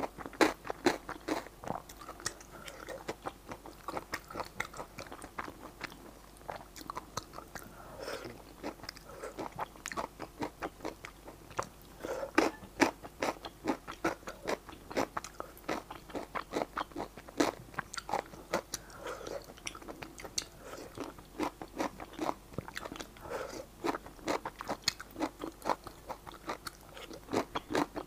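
Close-miked chewing of saucy Xinjiang stir-fried rice noodles: a steady run of many small wet mouth clicks and smacks.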